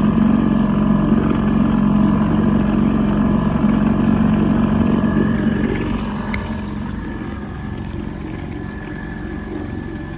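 Boat engine running steadily, easing off slightly about six seconds in.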